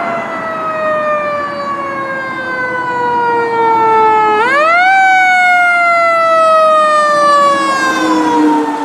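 Fire truck siren in a slow wail. Its pitch falls steadily for about four seconds, sweeps quickly back up about four and a half seconds in, then falls slowly again.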